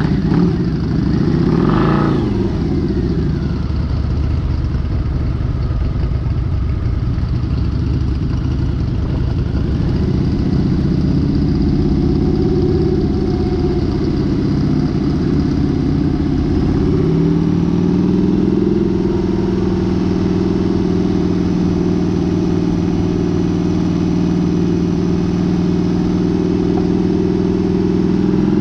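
Harley-Davidson motorcycle engine running at road speed, heard from the bike. Its note swells and shifts in pitch briefly about two seconds in, then holds steady at a slightly higher pitch from a little past halfway.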